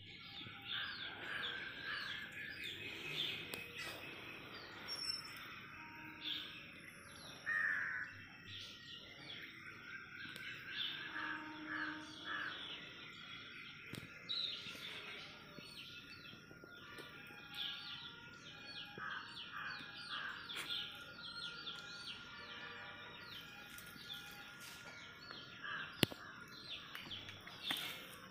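Several birds chirping and calling in quick, repeated high notes, with a single sharp click near the end.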